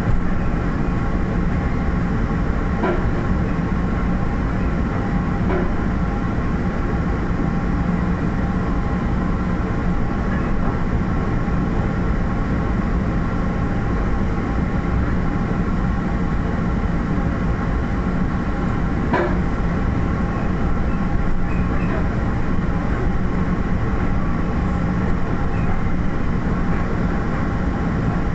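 MBTA commuter rail coach under way, heard from on board: a steady running noise with a strong low hum and a few faint clicks from the wheels and track.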